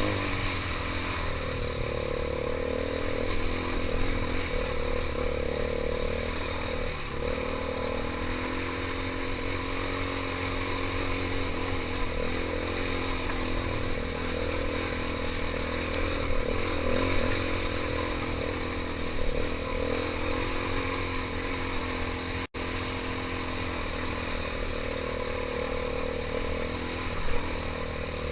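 KTM 500 EXC's single-cylinder four-stroke engine running steadily while being ridden, its pitch rising and falling only slightly with small throttle changes. The sound drops out for an instant about two-thirds of the way through.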